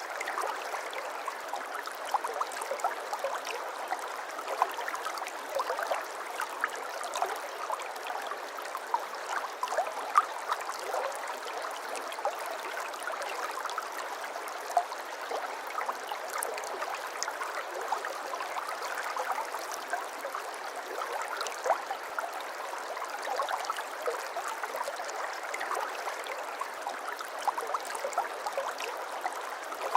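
A small stream's water flowing and babbling steadily, with many small bubbling splashes and no deep rumble.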